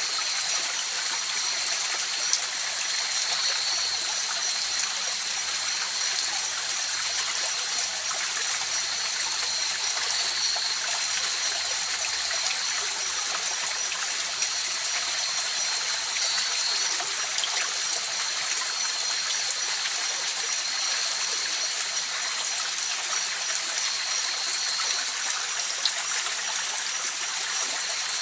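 A river's flowing water rushing steadily, with a thin, steady high-pitched tone running above it.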